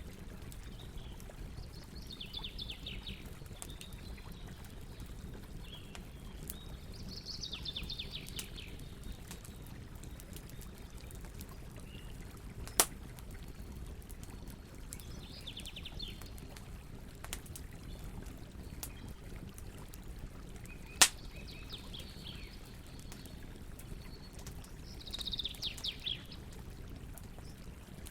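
Campfire burning with a low steady rumble and light crackling, broken by two sharp pops. A bird sings a short trilled phrase about every five seconds.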